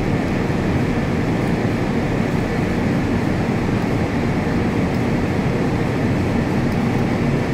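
A steady low mechanical rumble that keeps going without change.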